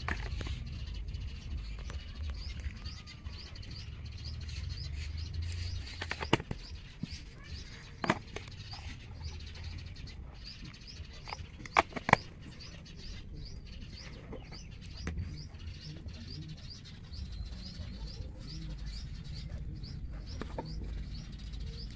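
A small bird chirping over and over, short high chirps at about two a second, over a steady low rumble. A few sharp clicks come about six, eight and twelve seconds in.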